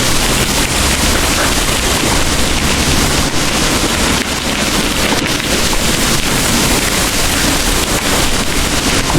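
Heavy rain pouring steadily, with a deep rumble beneath it.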